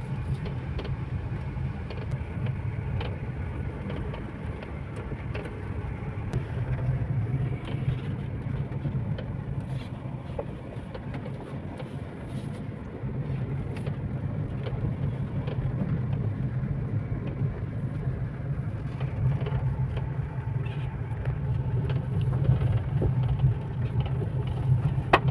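A road vehicle running steadily: a low engine drone under road noise, growing a little louder in the last few seconds.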